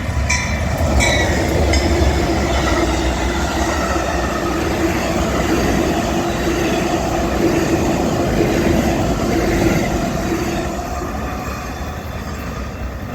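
Amtrak Coast Starlight passenger train passing close by. The deep rumble of the diesel locomotives is strongest in the first few seconds, then the cars roll past with a steady whine from the wheels, which eases off near the end.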